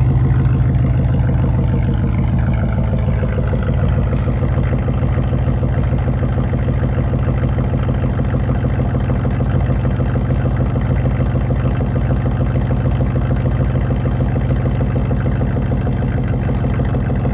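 A 2006 Impala SS's LS4 5.3-litre V8 idling steadily after a cold start, through a straight-pipe exhaust with the muffler and resonator removed and the catalytic converter kept. The exhaust is loud, with a deep, even drone. The level eases slightly about two seconds in, then holds steady.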